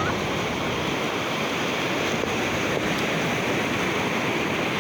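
Ocean surf washing onto a beach, a steady, unbroken rush.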